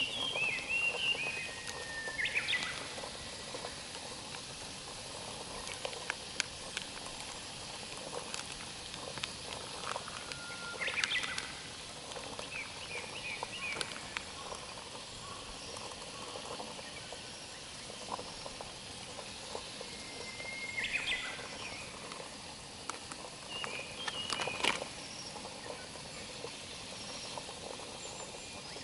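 Birds chirping and calling on and off over a steady outdoor hiss, with a few sharp clicks scattered through.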